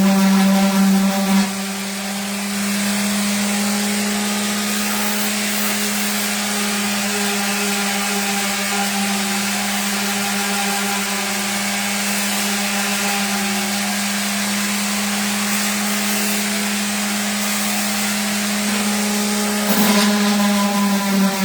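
Random orbital sander running steadily against the wood sign: a constant motor hum under a sanding hiss. It is a little louder briefly at the start and again near the end.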